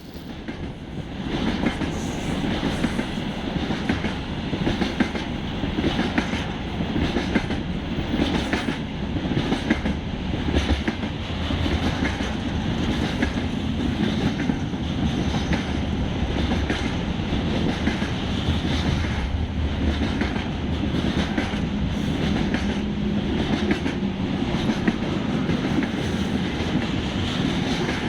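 Train rolling past on the rails, wheels clacking over the rail joints in repeated clicks over a steady rumble. It grows louder about a second in and then runs on evenly.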